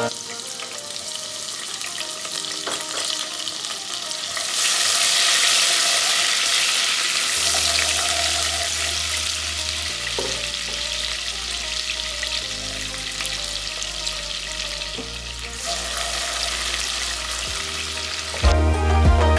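Food frying in hot oil in a pan, a steady sizzle that is loudest from about four to seven seconds in. Soft background music plays underneath.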